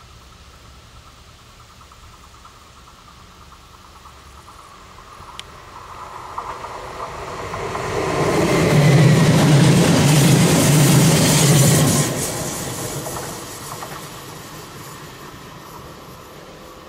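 Stadler FLIRT electric multiple unit passing close by. The sound of it on the rails swells as it approaches and is loudest for about four seconds. It drops off sharply as the train clears, then fades as it runs away.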